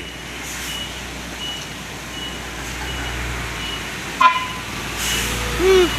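Heavy truck traffic running past with a low engine hum and a short high beep repeating about every three-quarters of a second. There is a sharp knock about four seconds in and a short horn toot near the end.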